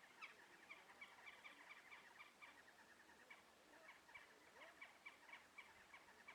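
Faint, rapid high chirping from a small animal, about four or five short chirps a second, with a few lower sliding notes in between.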